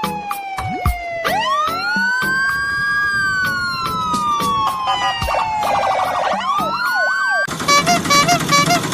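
Siren-like electronic sliding tones, several overlapping, each rising or falling slowly over a few seconds. About seven and a half seconds in they give way to a fast rhythmic pattern of short repeated beeping notes.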